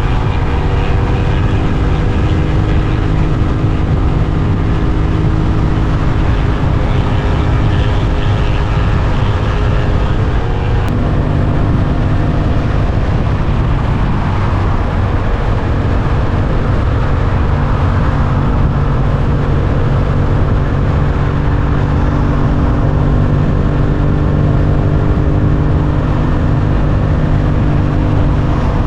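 Suzuki GSX-8S's 776 cc parallel-twin engine running steadily under way. Its note drops about eleven seconds in, then holds on a steady pitch.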